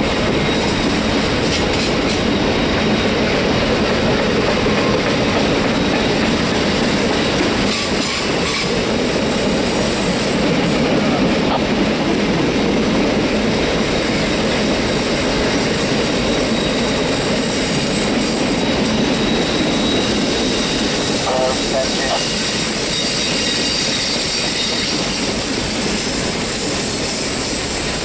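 A Triple Crown RoadRailer train's trailers rolling steadily past on their rail bogies around a tight curve. The wheels on the rail make a continuous noise, with a faint high wheel squeal at times.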